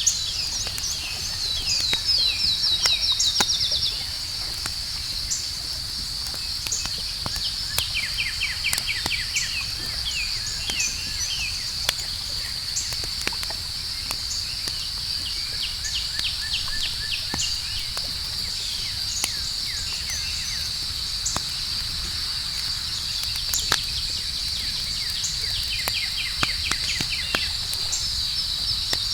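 Campfire crackling with scattered sharp pops, over a steady high-pitched insect trill and several runs of rapid bird chirps, the loudest run about two to four seconds in.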